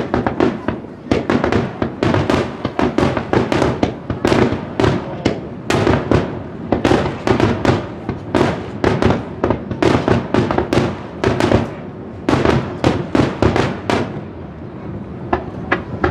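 Aerial fireworks going off in a dense, rapid barrage of bangs and crackles, many reports a second. The barrage thins out about two seconds before the end.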